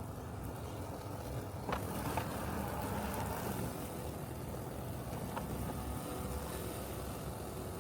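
Robotic lawn mower running with a steady low hum, with a few faint clicks scattered through it.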